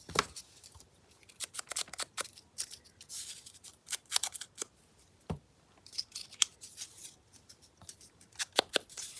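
Scissors snipping paper in a series of short, irregular cuts, trimming down the pointed corners of a paper envelope flap.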